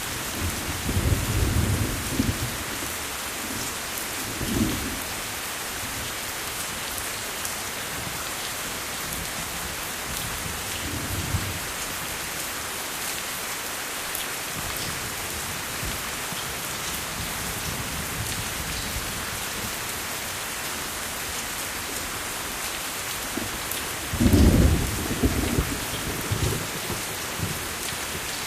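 Steady, heavy rain, with low rumbles of thunder rolling in several times. The loudest roll of thunder comes near the end.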